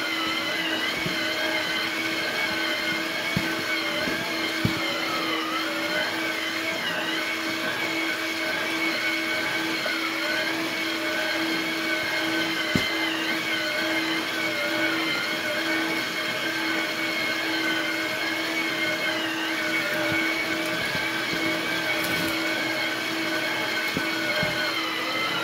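Small 12-volt electric motors of a model dump-pit conveyor running steadily: a constant low hum with a higher whine that wavers slightly in pitch as the load changes. A few sharp clicks come from dirt and sawdust falling through.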